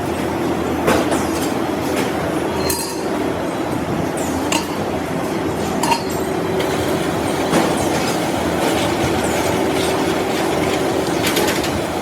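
Workshop machinery running steadily with a constant hum, with sharp metallic clinks and knocks every second or two.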